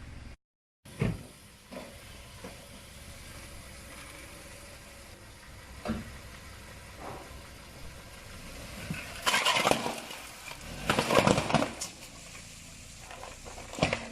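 Car tyres rolling over objects and crushing them, over the steady hum of the car. A few sharp cracks come in the first seconds, then louder stretches of crackling and crunching past the middle and again near the end.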